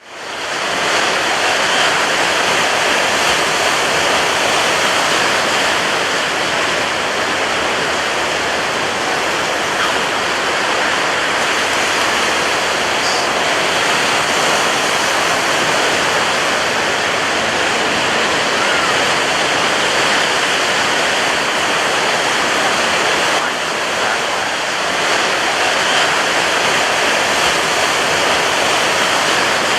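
Surf breaking on a beach, heard as a steady, dense wash of water noise that fades in over about the first second.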